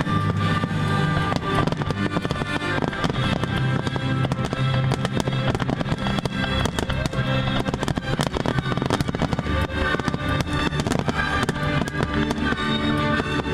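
Fireworks crackling and banging in quick, irregular succession over music that plays steadily throughout.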